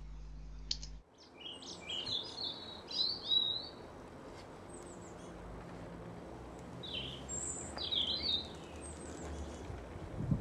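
Small birds chirping and singing in short high phrases, in two spells: about one to four seconds in and again around seven to eight seconds in, over a faint low steady hum.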